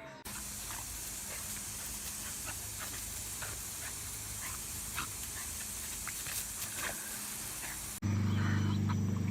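A dog making brief soft whines and snuffles over a steady hiss. About eight seconds in, a louder low steady hum cuts in.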